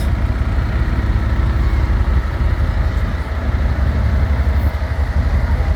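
Steady low rumble of a heavy diesel engine running at idle.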